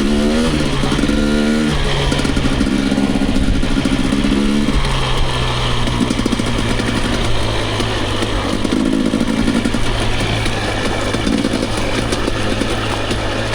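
Dirt bike engine running on a trail ride, the revs climbing about half a second in, holding, then dropping to a lower steady note after about five seconds.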